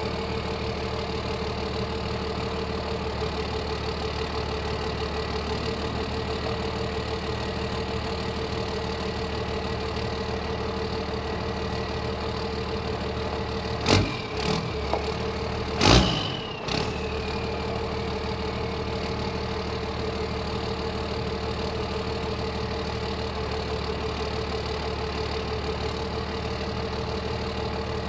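1995 Dodge Cummins 12-valve 5.9 L inline-six turbo diesel, on a 3-inch straight-pipe exhaust, idling steadily shortly after a cool-morning cold start. About halfway through there are two short louder bursts, the second followed by a falling whine.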